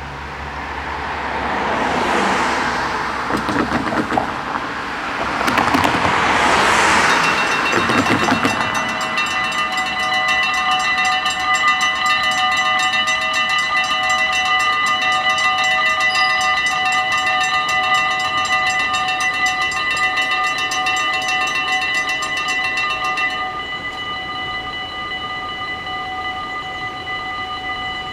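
Two road vehicles pass, one after the other, then the level crossing's warning bells start ringing about eight seconds in, a fast, steady electronic ringing. About 23 seconds in part of the ringing stops while the rest keeps sounding.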